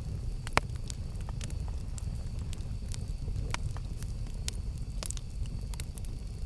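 Campfire of burning wood crackling and popping: irregular sharp snaps over a steady low rumble of the flames, with one louder pop about half a second in.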